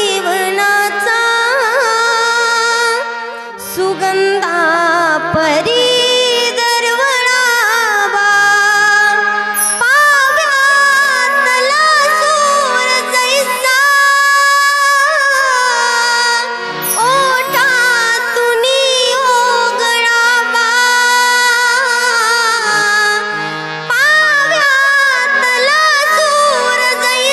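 A woman singing a devotional bhajan, her voice gliding and ornamenting a melody in long phrases over steady held accompaniment notes.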